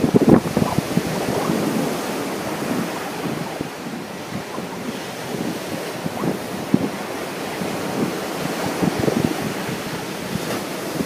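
Wind buffeting the microphone in irregular gusts over the steady wash of ocean surf, with the strongest gusts about the first second.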